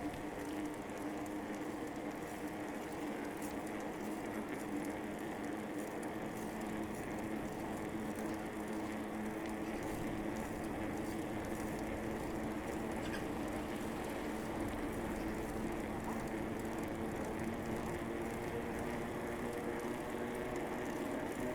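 Steady rolling noise of a bicycle being ridden on a paved path, under a constant low hum of city traffic.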